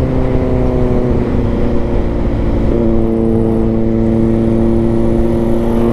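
Vehicle engine running steadily at a constant speed, its pitch stepping down slightly about three seconds in.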